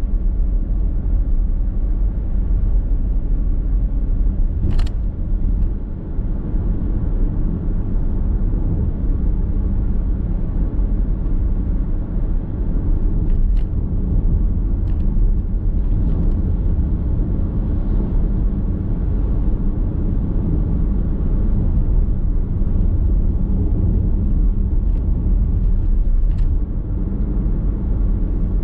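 A car driving at steady speed, heard from inside the cabin: a constant low rumble of tyre, road and drivetrain noise, with a few brief sharp clicks.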